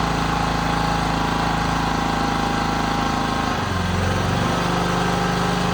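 Portable generator's petrol engine running steadily after a valve lapping, without its air filter fitted. A little over halfway through, its speed dips and wavers briefly, then settles at a steady pitch again.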